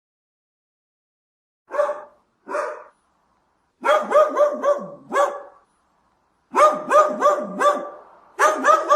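Dog barking: two single barks, then quick runs of several barks in a row.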